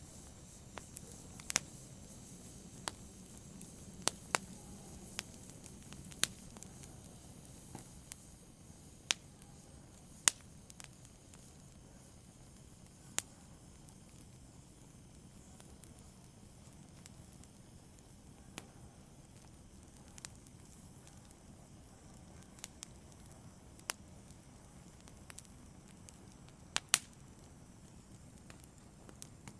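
Fireplace fire crackling: sharp, irregular pops and snaps over a faint steady hiss. The pops come thickly in the first half and more sparsely later, with a close pair of loud snaps near the end.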